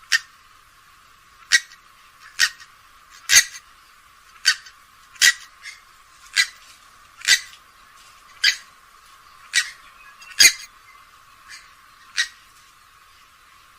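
Grey-headed swamphen giving a series of short, sharp calls, about one a second.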